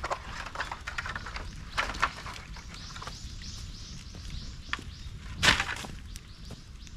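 Bamboo burning in a bonfire, crackling with irregular sharp pops and cracks. One loud crack comes about five and a half seconds in.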